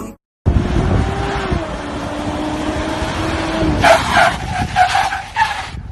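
SUV engine running as the vehicle drives slowly on pavement, with a steady engine note. About four seconds in come several short, loud calls.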